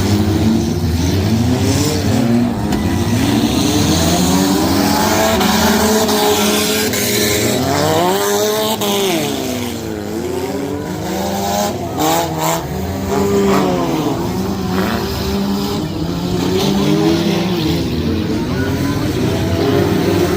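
Several junk race cars' engines racing together, each pitch repeatedly rising and falling as the drivers accelerate and lift off around the track.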